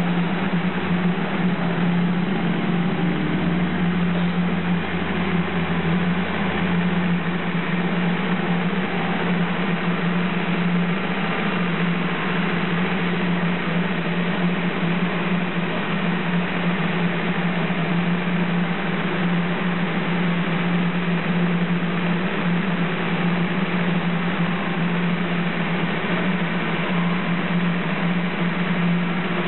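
998cc A-series four-cylinder engine of a Mini City with a Stage 1 kit and skimmed cylinder head, running loud and steady under load on a rolling road dyno, its pitch holding constant throughout.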